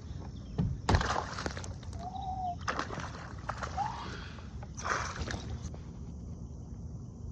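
Water splashing and sloshing around a kayak in several separate bursts, the first about a second in being the loudest. Two short chirping tones come between the splashes.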